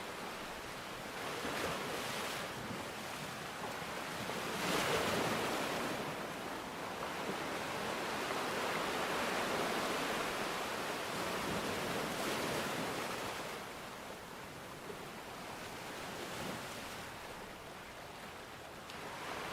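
A steady rush of water noise that swells and ebbs every few seconds, with no distinct drops or impacts.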